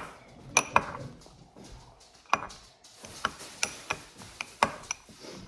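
Irregular sharp clicks and taps, about ten of them, from a utensil knocking against a bowl while slime is mixed.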